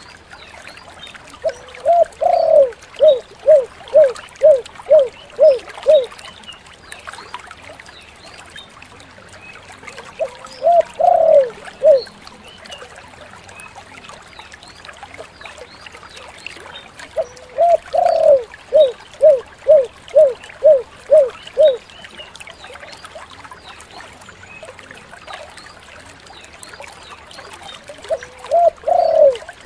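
Spotted dove (tekukur) cooing. Each full phrase is a drawn-out opening coo followed by a quick string of about seven short, evenly spaced coos, the 'kuk 7' song type. There are two full phrases, a shorter one between them, and another starting near the end, over a faint steady hiss.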